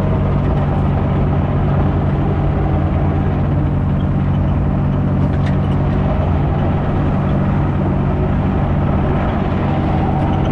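New Holland mini excavator's engine running steadily under load.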